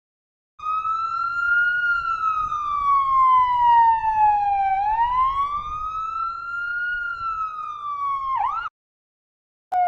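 Emergency-vehicle siren sounding a slow wail: the pitch climbs, sinks over about three seconds, climbs again, then dips quickly and cuts off suddenly.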